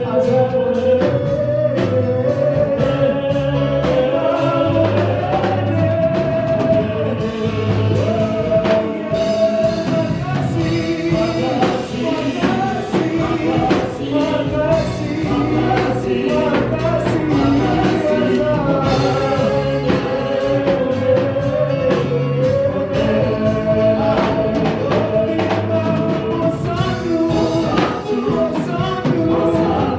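Live gospel praise music: singers carrying a melody over a full band with a steady beat.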